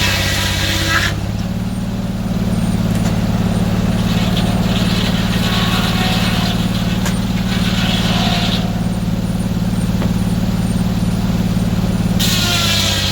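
Sawmill engine running steadily with a low hum. A brighter, higher-pitched layer of noise drops out about a second in and comes back near the end.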